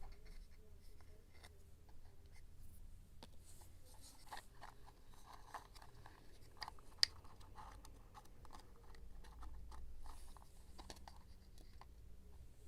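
Paper and craft supplies being handled for scrapbooking: scattered light taps, crinkles and rustles, with one sharp click about seven seconds in.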